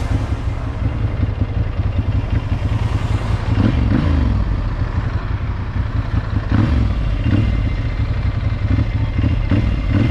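Motorcycle engine running while riding, its pitch rising and falling several times as the revs change, over a heavy low rumble.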